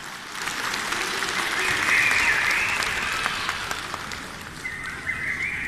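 Audience applauding, swelling over the first two seconds and then fading away. A high whistle sounds over the clapping about a second and a half in, and again near the end.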